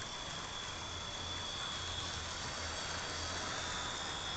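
Model freight train running around the layout track: a steady low hum with a thin, steady high whine over it.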